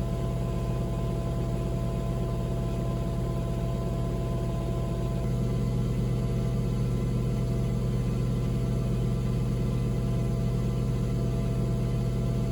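Panasonic NA-VX9300L drum washing machine running with a steady motor hum made of several even tones; it grows slightly louder about five seconds in.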